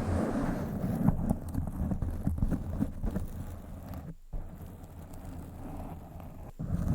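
A microphone being scratched and rubbed directly by fingers: a rough rumbling scratch with scattered sharp clicks. It grows quieter in the second half, with two brief breaks, about four seconds in and near the end.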